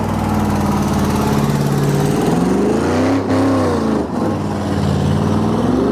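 Truck engine revving: held steady, then the pitch climbs and drops back about three seconds in, and climbs again near the end.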